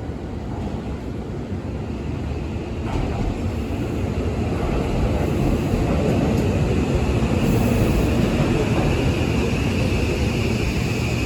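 Refurbished Seibu 6000 series electric train with Mitsubishi SiC-VVVF traction inverter running under power: a rail and motor rumble that grows louder, with a steady high inverter tone coming in about five seconds in.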